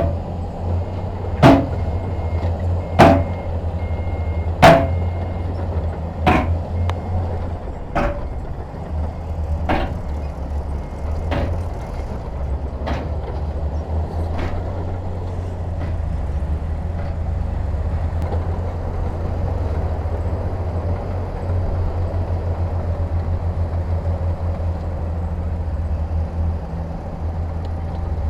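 Heavy diesel engine of construction machinery running with a steady low rumble. Over it come sharp metallic knocks about every one and a half seconds, which grow fainter and stop about halfway through.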